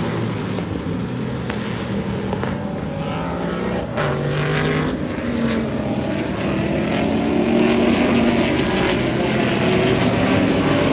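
Several historic IMSA GT race cars' engines accelerating and passing at full throttle, their pitches rising and falling and overlapping. There is a loud pass about four seconds in, and the sound builds again toward the end.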